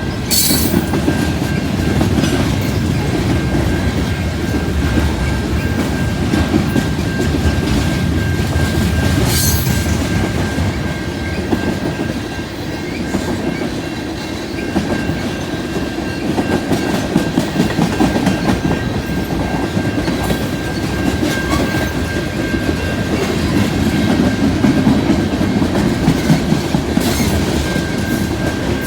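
CN freight train rolling past over a street crossing: a steady rumble of cars, with wheels clacking and clicking over the rail joints and a thin steady high tone running throughout.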